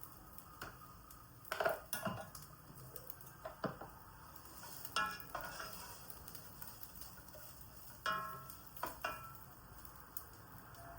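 Kitchen utensils clinking and knocking against cookware, a few sharp strikes with short ringing in small clusters about 2 seconds, 5 seconds and 8 to 9 seconds in.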